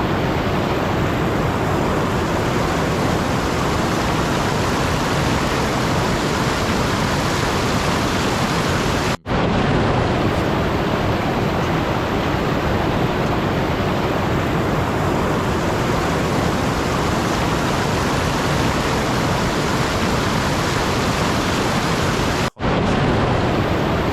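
Steady, even rushing noise, like pink noise or a heavy downpour, with no distinct events. It cuts out briefly twice, about nine seconds in and again near the end, as at the joins of a looped track.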